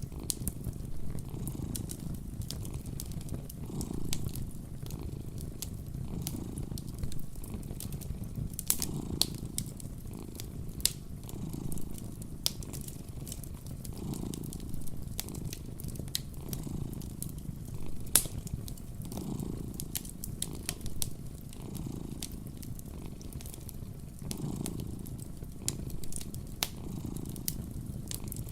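A cat purring close up, the purr swelling and fading with each breath about every two seconds, over a wood fire crackling with scattered sharp pops.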